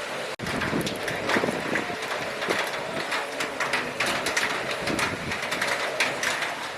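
Heavy cyclone rain falling steadily, with gusting wind and many sharp drip and splash ticks.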